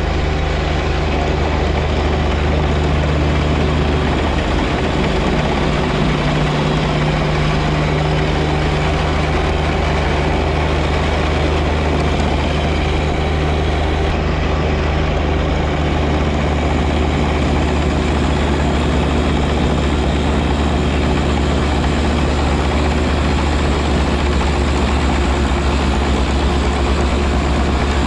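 John Deere 1025R compact tractor's three-cylinder diesel engine running steadily at a constant speed, with a hissing wash of noise over it.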